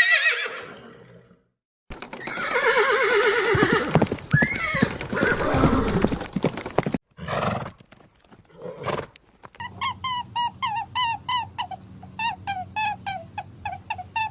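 A horse neighing: one long, wavering whinny lasting about five seconds, followed by two short snorts. From about ten seconds in, a quick run of short repeated bird calls, about three a second, takes over.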